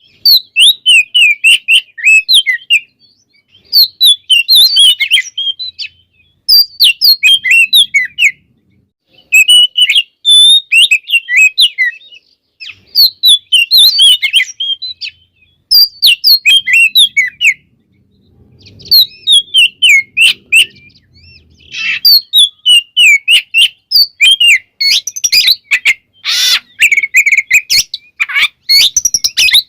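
Oriental magpie-robin (kacer) singing a fast, varied song of high chirps and whistles, in phrases of a couple of seconds broken by short pauses, with a few harsher, noisier notes near the end.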